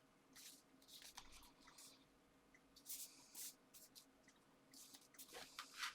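Faint rustles and scuffs of paper and card stock being handled and pressed down, a few short ones spread out, a little louder around the middle and near the end.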